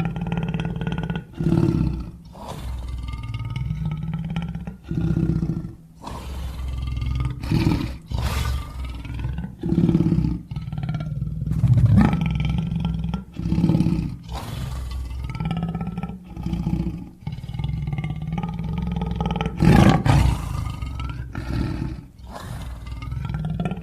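Deep, rumbling growls of a fictional dinosaur sound effect, a dozen or so in a row, each a second or two long with short breaks between, some with a wavering higher tone over the low rumble.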